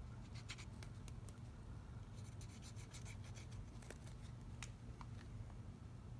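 Faint scattered clicks, taps and scratchy rustles of paper and craft supplies being handled on a work table, over a low steady hum.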